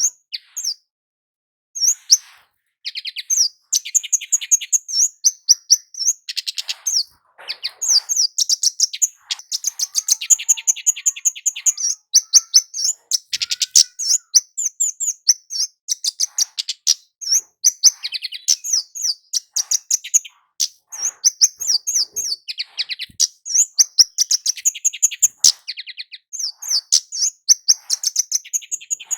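Kemade flowerpecker calling continuously in rapid runs of high, thin chips and short trills, several notes a second, with a brief pause about a second in. This is the loud, persistent 'gacor' calling used as a lure and trigger for other flowerpeckers.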